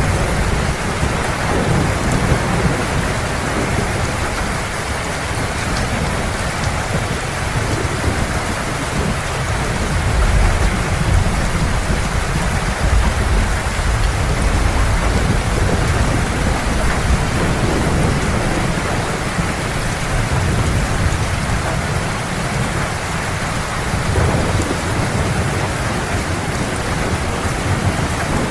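Heavy rain pouring steadily, with low rolling thunder swelling and fading beneath it.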